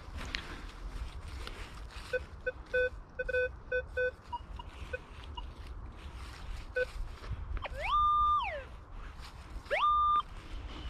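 Minelab Vanquish 440 metal detector giving a run of short, low target beeps as the coil is swept, then two louder tones that slide up in pitch, hold, and slide back down.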